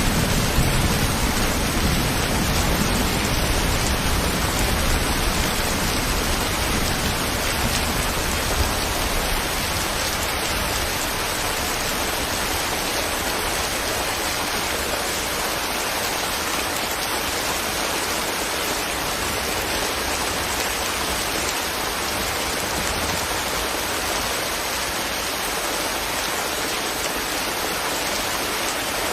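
Steady rain falling, an even hiss of drops with no single sounds standing out. A low rumble of thunder dies away over roughly the first ten seconds.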